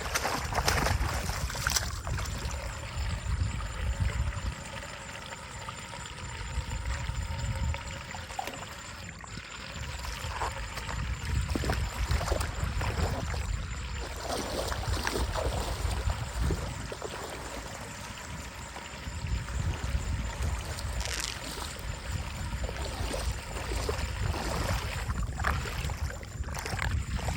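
Water running and trickling through a storm drain as it is cleared, a continuous flowing sound with a few brief knocks.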